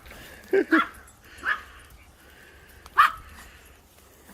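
A dog barking: four short barks, two in quick succession about half a second in, another about a second and a half in, and a last one at about three seconds.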